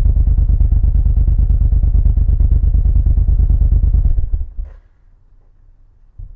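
Suzuki VL1500 Intruder's V-twin engine running with an even, pulsing beat, then shut off about four seconds in, fading out over about half a second. A single short knock follows near the end.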